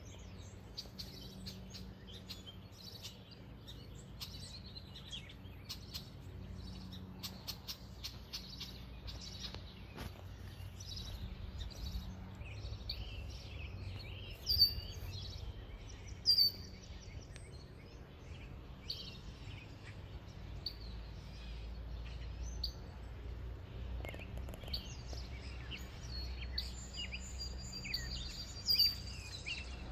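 Several songbirds chirping and singing, with three sharp, louder calls, two around the middle and one near the end, over a low steady outdoor rumble.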